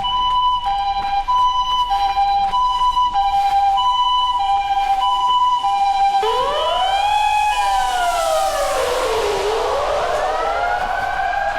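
Japanese ambulance siren sounding its two-tone hi-lo call, the two pitches alternating about every half second. About six seconds in, a second siren takes over with a slow rising-and-falling wail, together with a passing rush of noise.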